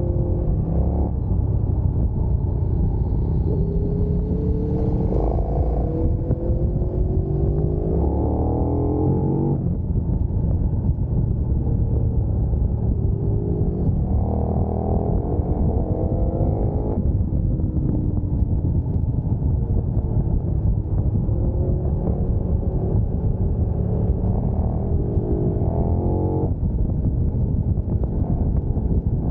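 Sport motorcycle engine ridden hard from onboard. The note climbs through the revs and drops off three times, at about a third of the way, just past halfway and near the end, over a heavy low rumble.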